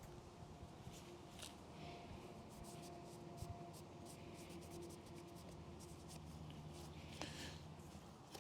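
Faint, quick scratching and scraping strokes, a tool or hand rubbing over a hard surface, over a faint steady hum.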